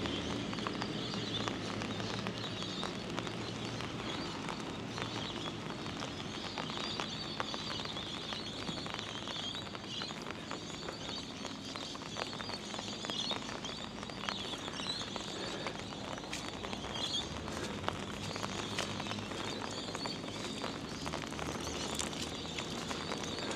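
Birds chirping and twittering over the steady hiss of monsoon rain, with scattered close ticks of raindrops.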